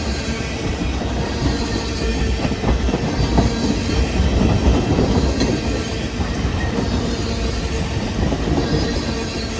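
Union Pacific train rolling past on the rails, a steady low rumble of wheels and cars.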